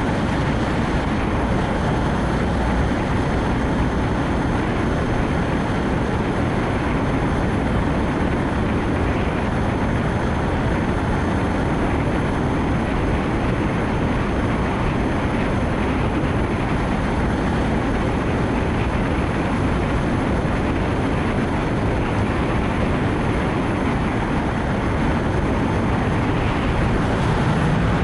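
Steady road noise of a Nissan Note e-POWER driving in heavy rain: an even hiss of tyres on the wet road mixed with rain and wind, with no clear engine note.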